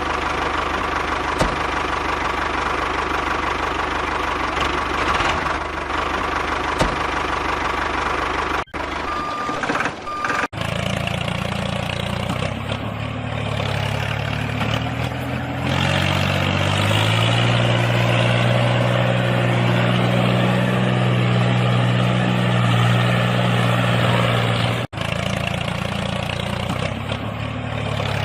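Vehicle engine running steadily, cut into several sections; through the middle it settles into an even low drone.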